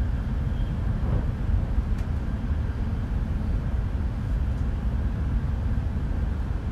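Steady low rumble of an E5 series Shinkansen train running along the line, heard from inside the passenger cabin.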